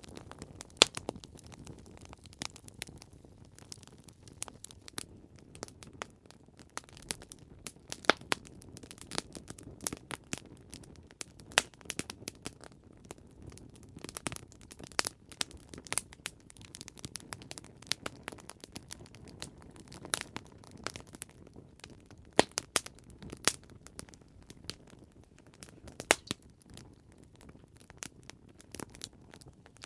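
Campfire crackling: irregular sharp pops and snaps of burning wood over a soft low rumble of flame.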